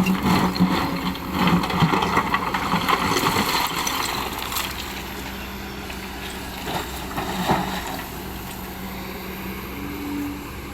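Excavator's diesel engine running steadily, louder and rougher with clattering for the first few seconds as it works, then settling to a steadier run with a couple of knocks later on.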